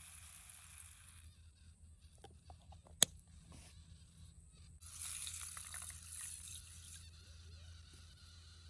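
Quiet surroundings broken by one sharp click or tap about three seconds in, followed by a brief rush of hiss lasting about two seconds.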